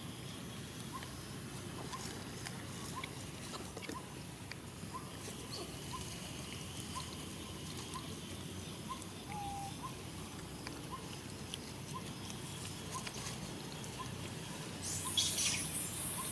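Outdoor ambience: a faint short chirp repeats about twice a second over a low steady background. A brief burst of rustling comes near the end.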